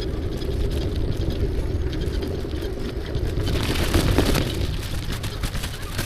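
Motorbike engine running while riding, mixed with wind noise on the action camera's microphone. The noise swells briefly about four seconds in.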